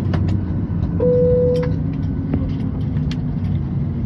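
Airliner cabin at the gate: a steady low hum of aircraft air and power systems, with scattered clicks and knocks from passengers moving about and a single short tone about a second in.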